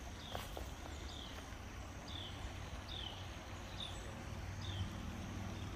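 A bird repeating a short, high chirp that falls in pitch, about once a second, over a steady low rumble.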